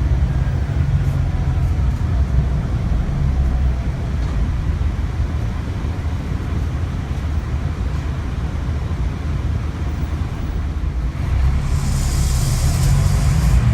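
Scania K360IB bus's diesel engine running with a steady low drone, easing off a little partway through. A hiss of compressed air starts about twelve seconds in and lasts a second or two.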